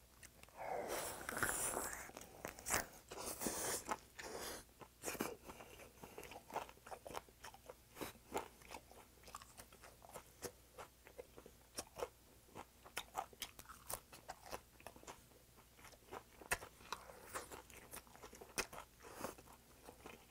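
Mouth sounds of a person biting and chewing a raw butterfish sandwich with crisp romaine lettuce and onion: wet crunching and smacking. The loudest, noisiest stretches come about a second in and again around three seconds, followed by a steady run of small chewing clicks.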